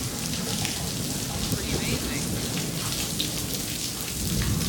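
Steady rain falling in a thunderstorm, with a low rumble of thunder starting to build near the end.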